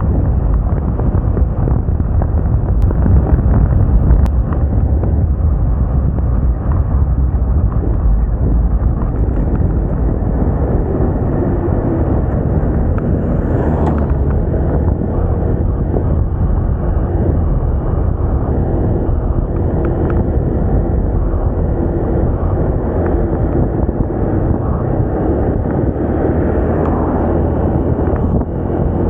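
Wind rushing over the microphone of a moving Moda Moca 110 scooter, with its small engine running steadily underneath.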